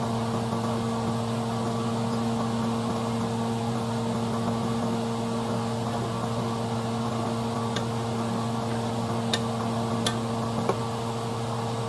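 Steady electric motor hum with a light hiss, like a fan or kitchen appliance running. There are a few light clicks near the end.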